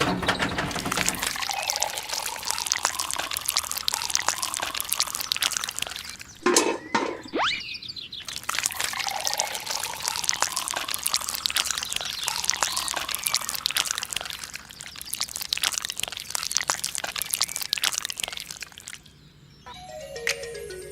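A dense crackling, pouring sound of liquid or wet loose material, with a brief rising tone about seven seconds in.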